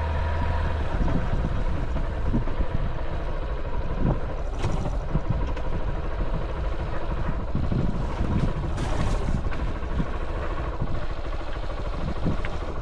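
Honda XR190L's single-cylinder engine running steadily as the motorcycle is ridden.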